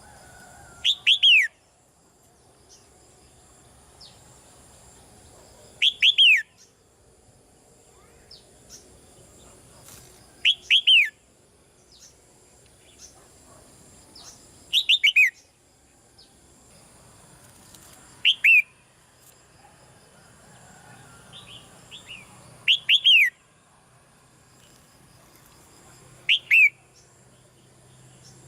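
Red-whiskered bulbul calling: short bursts of two or three quick, falling whistled notes, repeated every three to five seconds.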